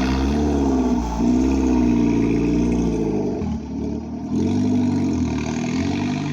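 Tuned Volkswagen's engine running loud as the car arrives, its pitch rising and falling with the throttle; it drops off about three and a half seconds in, then picks up again about a second later.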